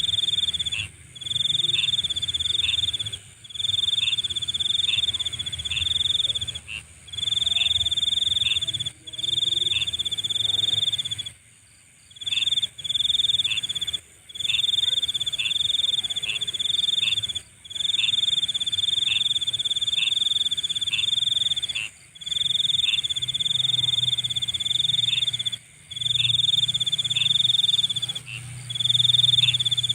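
Nighttime insect chorus: a loud, high cricket-like trill in bursts of about a second, repeating roughly every two seconds, over a steady higher-pitched buzz and a low background chorus. The trills stop briefly about eleven seconds in.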